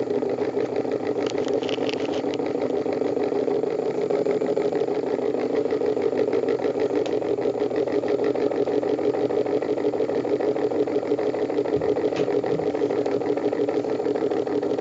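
A motor running steadily with an even, fast buzz and no change in speed.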